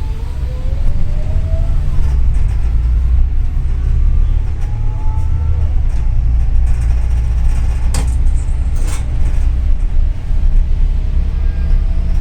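Interior rumble of a double-decker city bus under way: a steady, loud low drone of engine and road noise, with a faint whine rising in pitch early on. Two sharp clicks or rattles about a second apart in the second half.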